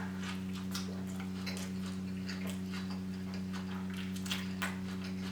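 Close-up chewing of a mouthful of chili cheese burger: soft, irregular wet mouth clicks over a steady low electrical hum.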